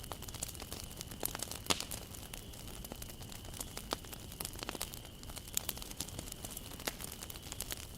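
Wood campfire burning: irregular sharp crackles and pops from the burning wood over a steady low hiss of the flames.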